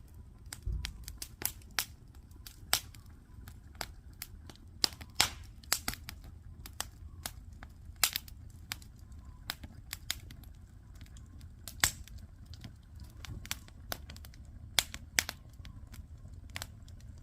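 Wood campfire crackling and popping: irregular sharp pops, a handful of them louder, over a faint low rumble.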